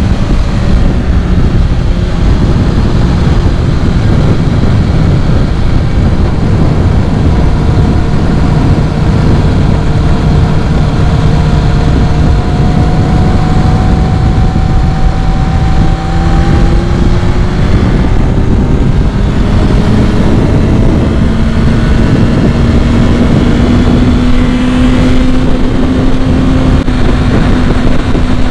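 Kawasaki ZX-6R motorcycle engine running under way over heavy wind rush, its drone holding steady, shifting pitch about two-thirds through, then slowly climbing. The owner says the bike is not running right and needs its carbs cleaned.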